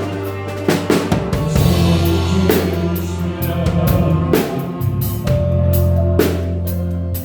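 Live gospel band music: a drum kit with kick and snare hits over held bass guitar notes and sustained chords.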